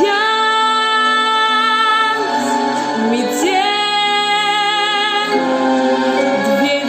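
Song: a female voice holding long sung notes over the accompaniment, with a new note starting about halfway through.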